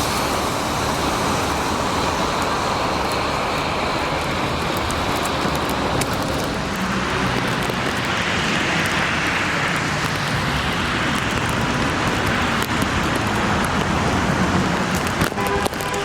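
Steady street traffic noise, with a vehicle passing close around the middle, its sound swelling and fading.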